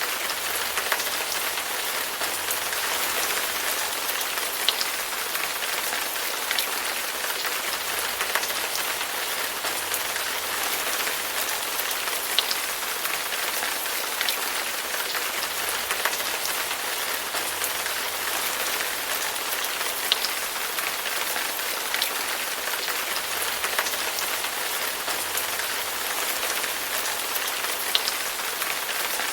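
Steady rain falling on a surface, an even hiss with scattered louder drops ticking every second or two.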